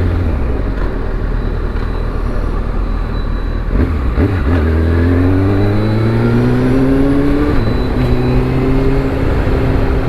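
Kawasaki Ninja ZX-6R 636's inline-four engine running low, then accelerating from about halfway through with its pitch climbing steadily. The climb breaks off at a gear change, and the engine carries on at a steadier pitch.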